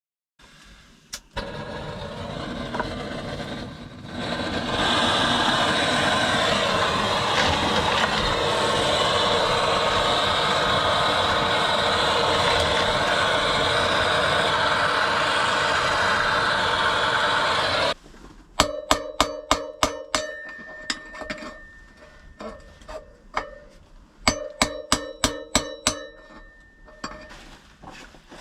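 A steady rushing noise for about sixteen seconds, stepping up in loudness about four seconds in and then cutting off. After it come runs of sharp, ringing metal taps from a hammer on a metal drift, knocking a dirt bike wheel bearing out of its hub.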